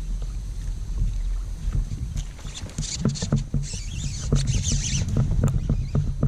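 Wind rumble on the microphone of a fishing kayak on the water. In the middle comes a run of sharp clicks and hissy splashing.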